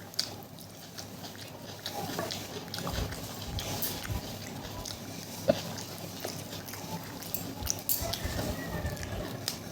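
A person chewing and eating close to the microphone, with many small wet mouth clicks and smacks.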